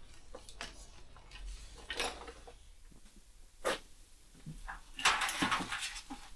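Workshop handling noise as a motorcycle wiring loom is worked out of the frame: scattered light knocks and clicks, one sharp click a little past halfway, and a louder scratchy rustling burst about five seconds in.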